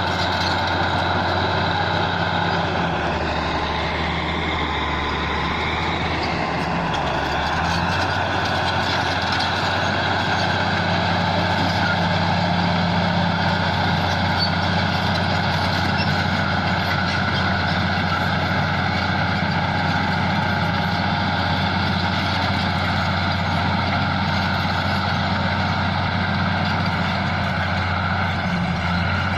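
Bulldozer's diesel engine running steadily under test. Its note drops lower for a few seconds near the start, then comes back up and holds.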